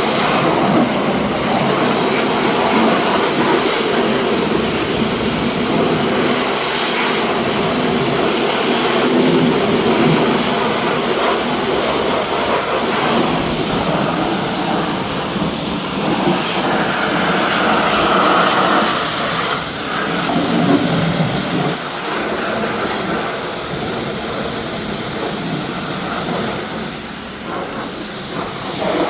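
Car-wash equipment running with a loud, steady rushing hiss that dips slightly in level about two-thirds of the way through.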